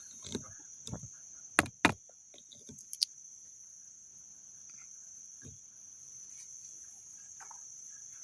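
Crickets chirping in a steady, high, unbroken trill, with a few sharp clicks or knocks in the first three seconds.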